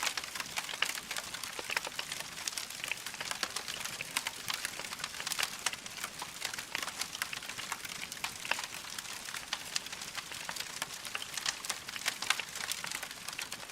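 Wood fire crackling in a fireplace: a dense, irregular run of small sharp pops and snaps over a steady hiss.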